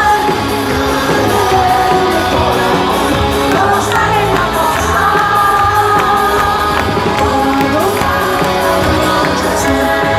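A live band and lead singer performing a pop-rock song at a stadium concert, with the audience shouting and singing along.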